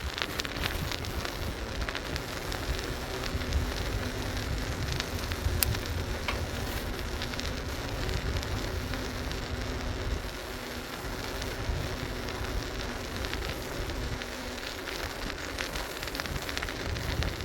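Riding noise from a bicycle (a Schwinn Wayfarer) on a street: a steady rumble of tyres on pavement and wind on the phone's microphone, with many small crackles and rattles.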